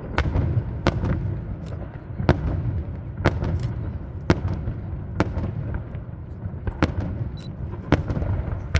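Aerial fireworks display: sharp bangs about once a second, a dozen in all, over a continuous low noise of more distant bursts.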